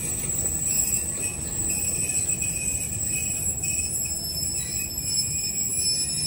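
Passenger train coaches rolling along the track, a steady rumble of wheels on rails with thin high-pitched tones ringing above it.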